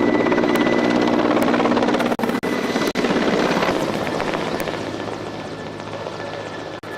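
Helicopter rotor and engine running steadily, loud at first, then growing quieter through the second half. The sound cuts out briefly a few times about two to three seconds in.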